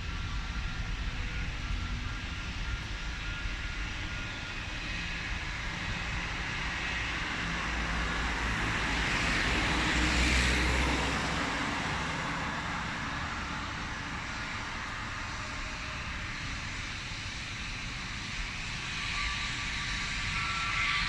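Jet airliner passing by, its engine roar swelling to a peak about halfway through and then fading away, with a faint engine whine beneath.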